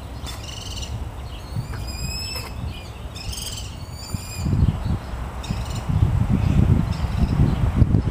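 Several short, high bird calls spaced a second or so apart, over a low rumble that grows louder about halfway through.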